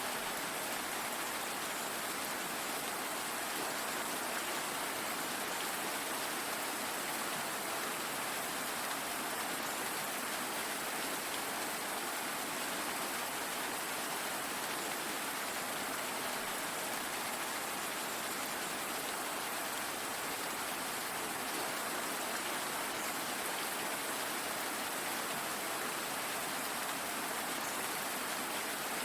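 Steady rainfall: an even hiss of rain on surfaces, unchanging throughout.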